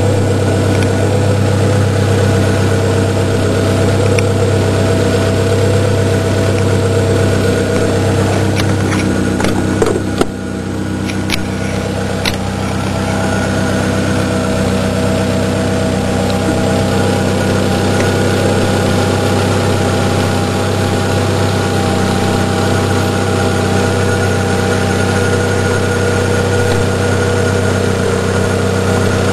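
Car engine idling steadily. About ten seconds in there are a few sharp clicks and a brief dip in the engine sound, then the idle carries on evenly.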